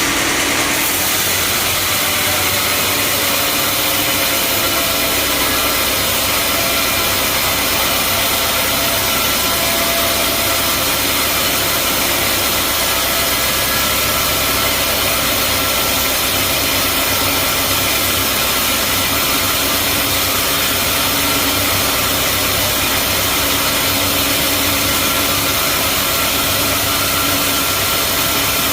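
Band sawmill running steadily: an even mechanical noise with a steady engine hum and a few faint steady tones.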